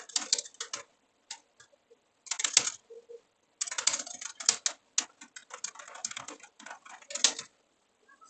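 Typing on a computer keyboard: irregular bursts of quick keystrokes with short pauses between them, stopping near the end.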